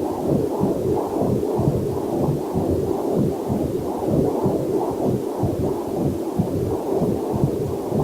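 Heartbeat picked up by a Doppler heart monitor: a quick, even pulsing whoosh, low and muffled, with a faint waterfall hiss mixed in beneath.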